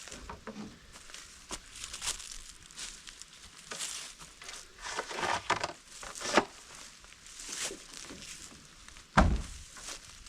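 Irregular rustling and crackling of brush and dry leaves, with footsteps, and a single heavy thump about nine seconds in.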